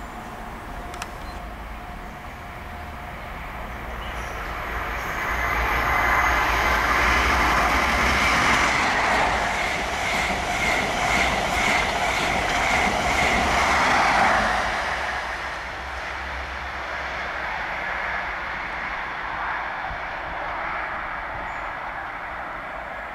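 Intercity express passenger train passing at speed. The noise builds over several seconds and the wheels clatter over the rail joints as it goes by, then the noise drops away about fifteen seconds in.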